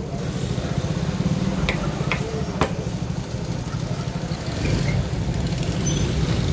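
Yamaha R15 V4's single-cylinder 155 cc engine running steadily at low revs, with a few sharp clicks about two seconds in. The engine grows a little louder about three-quarters of the way through.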